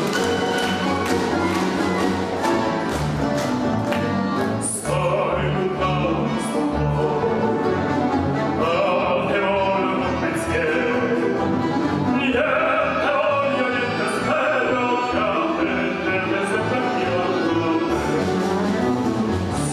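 An orchestra playing live with a steady percussion beat. About five seconds in, a singing voice joins, its sustained notes wavering with vibrato.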